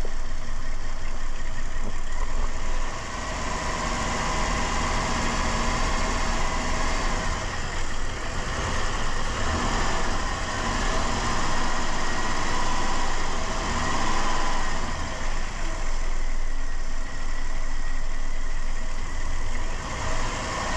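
2007 Dodge Caravan engine running while Seafoam intake cleaner is drawn in through a vacuum line, labouring under a heavy dose of the cleaner. Its level dips briefly about three seconds in, then holds steady with small rises and falls.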